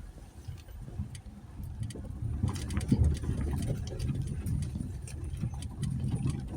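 2020 Jeep Gladiator driving slowly on a dirt trail: a low, uneven engine and drivetrain rumble with tyres crunching over gravel, sharp clicks of stones growing more frequent from about two and a half seconds in.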